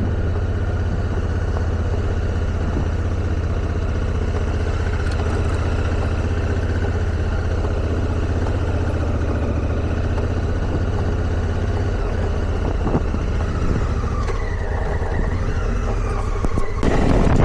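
Motorcycle engine running steadily at low revs while riding, its pitch rising briefly near the end, followed by a short louder rush of noise.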